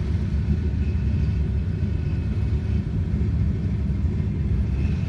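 Turbocharged Ecotec V6 engine of a Holden Commodore running at low revs: a steady, low, pulsing rumble.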